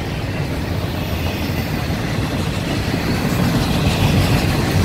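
Double-stack intermodal freight train rolling past, its well cars' wheels on the rails making a steady low rumble that slowly grows louder.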